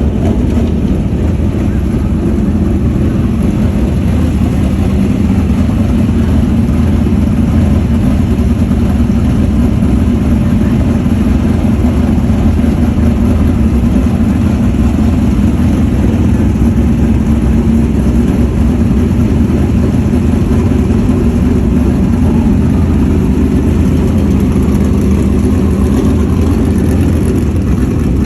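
Dirt track modified race cars' V8 engines running on the track: a steady, loud engine drone with no pauses.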